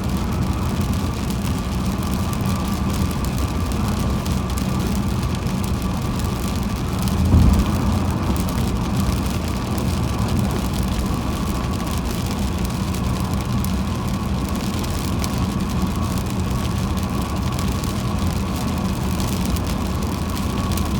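Car driving on a rain-wet highway: steady road and tyre noise with engine rumble and hiss, and a faint steady high whine. A brief louder low thump comes about seven seconds in.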